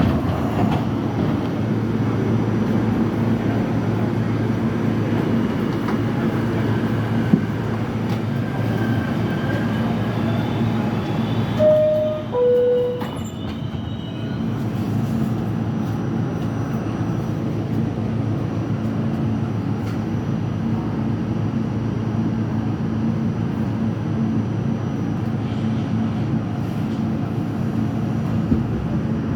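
Subway train of R68 cars running, a steady rumble of wheels and motors on the track. About twelve seconds in, a short two-note tone sounds, the second note lower than the first.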